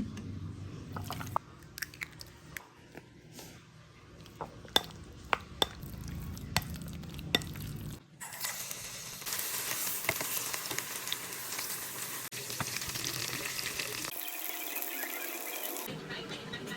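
A run of sharp knocks and taps for the first half, then a steady sizzle of chicken frying in hot oil for the rest, with some stirring.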